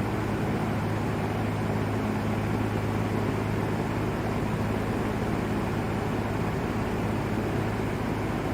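Vintage LAU Ultra Twenty 20-inch box fan running steadily: an even rush of air over a constant low motor hum.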